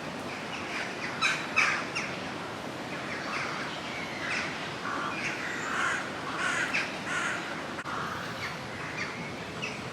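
Ducks quacking, a busy run of short, repeated calls over a steady outdoor background hiss.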